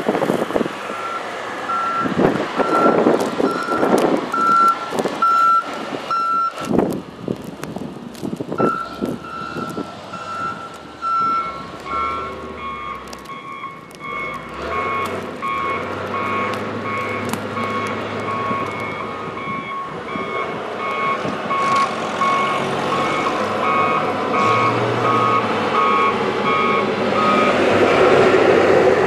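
Vehicle backup alarms beeping steadily, typical of plow trucks or loaders clearing snow. One higher-pitched beeper runs through the first ten seconds or so, pausing briefly, then a lower-pitched beeper takes over, with a low engine rumble underneath. Gusty noise bursts come in the first few seconds.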